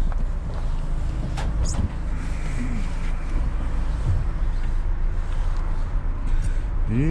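Van engine and road noise heard from inside the cabin while driving: a steady low rumble, with a few faint clicks.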